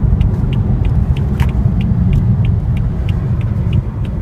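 BMW M4's twin-turbo 3.0-litre inline-six running with a steady low rumble, heard from inside the cabin, while the turn-signal indicator ticks about three times a second.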